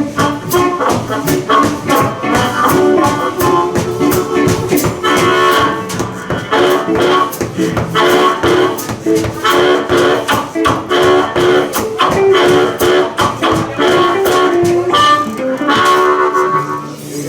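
Live blues band playing an instrumental stretch of a boogie: electric guitars, harmonica and drums keeping a steady beat.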